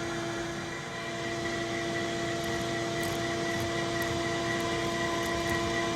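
Steady mechanical hum with several constant tones over an even hiss, unchanging throughout, with a few faint light ticks.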